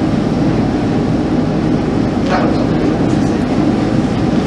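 A steady low rumbling drone with no clear pitch, with a faint short sound about two seconds in.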